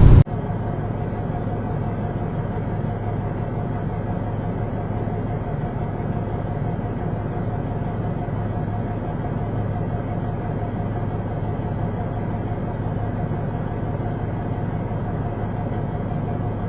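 Semi truck driving, heard from inside the cab: a steady, muffled drone of engine and road noise with a constant low hum.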